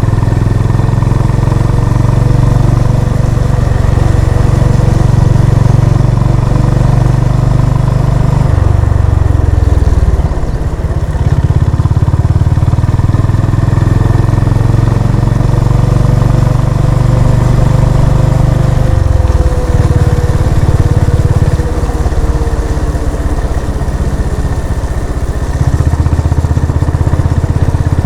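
Exhaust of a Honda CB350 RS's single-cylinder engine while riding, with the engine note dropping and picking up again a few times as the throttle is eased and reopened.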